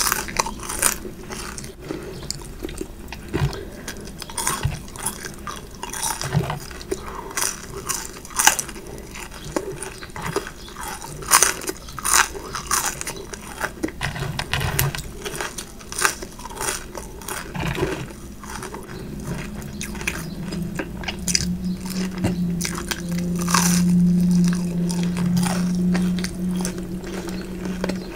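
Close-miked eating sounds: crunchy bites and chewing, with many sharp crackles throughout. A steady low hum joins in over the last third.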